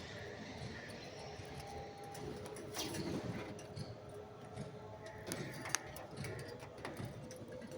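Parrots moving about and feeding: scattered sharp clicks and taps with faint held calls over a steady background hiss.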